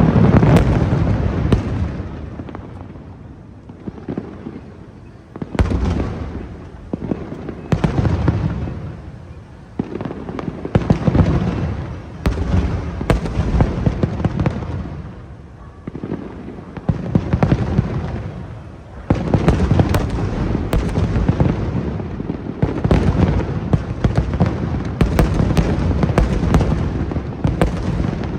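Aerial fireworks bursting in repeated barrages, booms and crackling that fade between volleys and build again, with dense runs of bangs in the second half.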